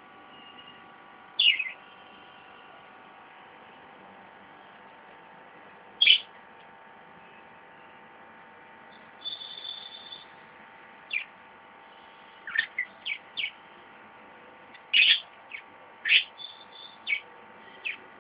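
Pet parrots giving short, sharp calls that each slide down in pitch: two single calls spaced a few seconds apart, then a quicker string of calls through the second half. A faint steady hum runs underneath.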